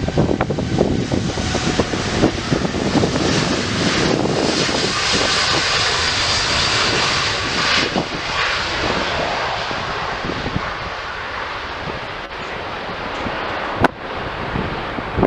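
Jet airliner passing, its engine noise swelling to a peak with a faint high whine a few seconds in, then slowly easing off. Wind buffets the microphone early on, and there is a sharp click near the end.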